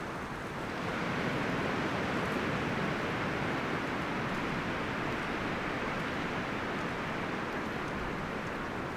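Wind blowing through forest trees, the leaves and branches rustling in a steady rush that swells into a stronger gust about a second in and holds.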